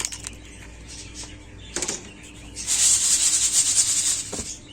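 Dry lentils poured onto seeds, a dense rattling patter of small hard grains that comes in loud about halfway through and stops near the end, after a few scattered clicks.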